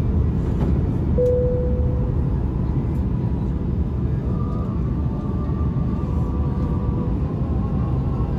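Steady low rumble of engine and airflow noise inside the cabin of an Airbus A330-200 airliner. About a second in, a brief single tone sounds and fades.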